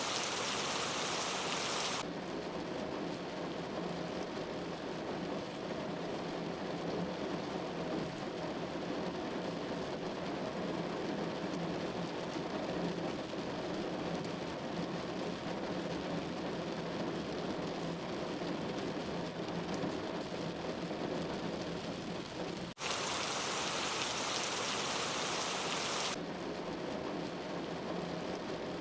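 Steady patter of falling precipitation, rain or wet snow, on a surface. At the start and again about three-quarters of the way through, the sound cuts abruptly to a brighter, hissier version for a few seconds and then cuts back.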